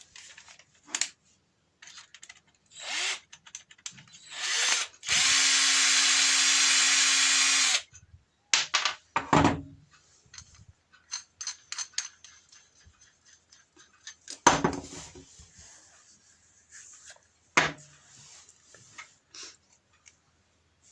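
Cordless drill-driver motor running in one steady burst of about two and a half seconds, along with shorter softer bursts and scattered clicks and knocks of parts being handled as the chuck is taken off.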